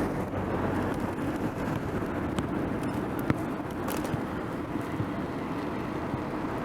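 Steady rumble of wind and tyre noise from riding a bicycle, with one sharp click about three seconds in.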